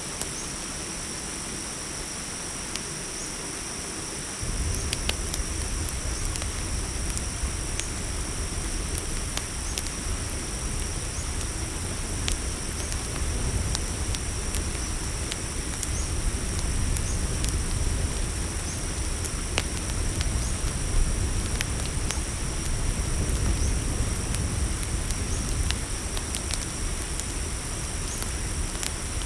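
Crickets chirping in a steady, high, unbroken chorus, over the sparse sharp pops and crackles of a campfire. About four seconds in a low rumble comes in and the whole sound grows louder.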